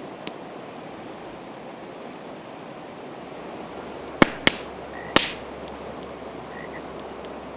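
Campfire of split evergreen wood burning over a steady hiss, with a few faint ticks and three loud sharp pops from the wood close together about four to five seconds in, the last trailing off briefly.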